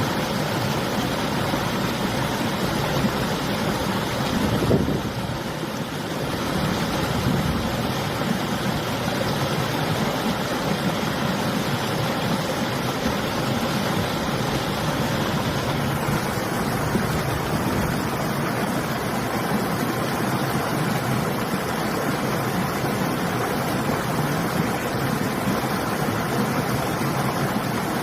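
River water flowing steadily, mixed with winter wind gusting across the microphone; a brief louder gust comes about four to five seconds in.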